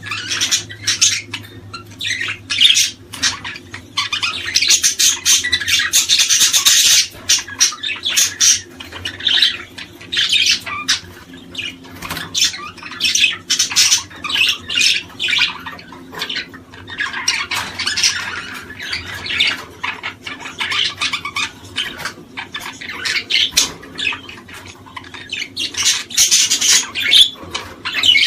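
A flock of small birds chattering and calling nonstop in dense, rapid bursts of short high calls, over a faint steady low hum.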